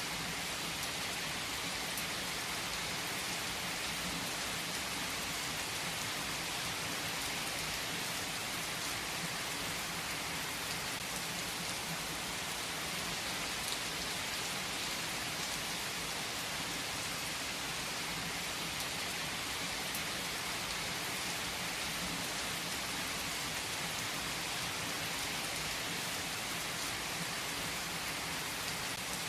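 Steady rain falling, an even hiss with a few sharper drops now and then.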